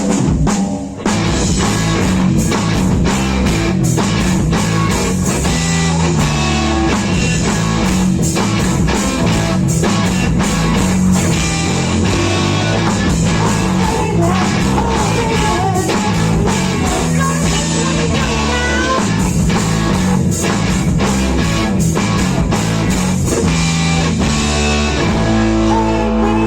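Live rock band playing an instrumental section: distorted electric guitar over bass and a drum kit hitting steadily.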